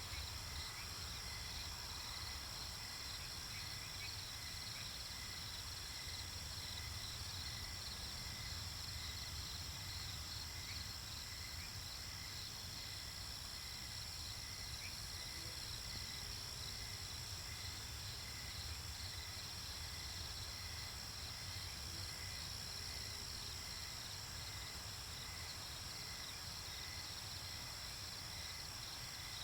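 Night-time insect chorus: a steady, high-pitched chirring with rapid pulsing, over a faint low rumble.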